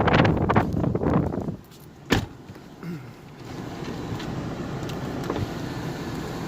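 Loud rushing wind noise on the microphone that cuts off about a second and a half in, followed by a single sharp click and a quieter steady low hum.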